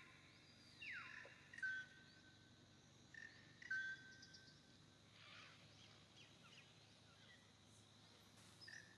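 Faint birdsong over a low outdoor hiss: a falling whistled call about a second in, then several short, steady whistled notes, with fainter chirps after.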